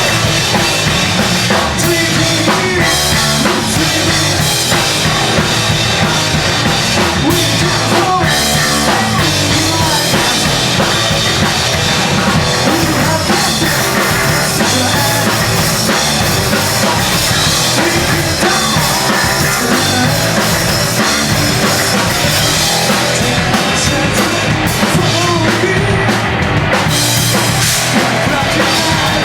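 Loud live hardcore-punk band playing, a full drum kit with bass drum driving under dense amplified instruments.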